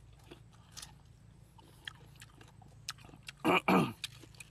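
A person chewing a mouthful of raw guava, with small wet mouth clicks and crunches. About three and a half seconds in comes one short, loud wordless vocal sound that falls in pitch.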